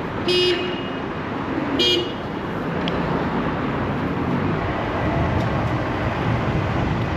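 Two short vehicle horn toots about a second and a half apart, over steady traffic and wind noise.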